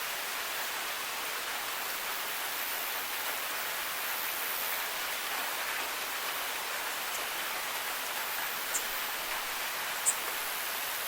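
Steady rain falling as an even hiss, with two brief high ticks near the end.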